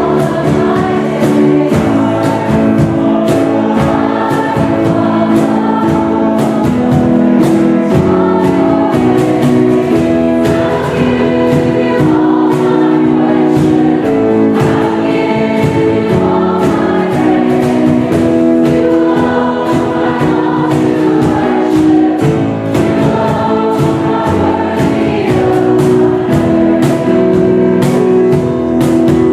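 Congregation and praise team singing a worship hymn together, with instrumental accompaniment keeping a steady beat.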